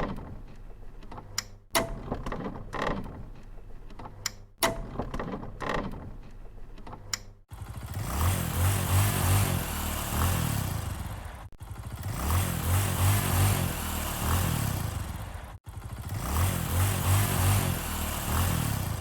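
An engine revving, with a low pulsing throb under noisy hiss, played three times in a row, each run about four seconds long. Before it come several short, sharp clicks and knocks.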